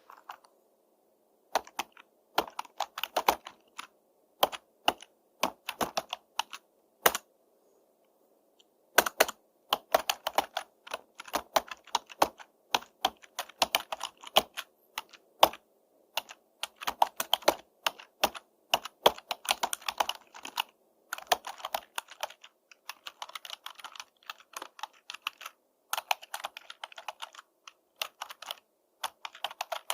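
Typing on a computer keyboard: quick runs of key clicks in uneven bursts, with short pauses, the longest a second or so about a quarter of the way through.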